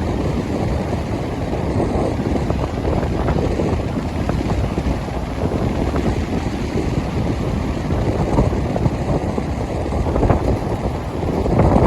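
Strong wind buffeting the microphone: a dense, uneven low rumble that rises and falls in gusts.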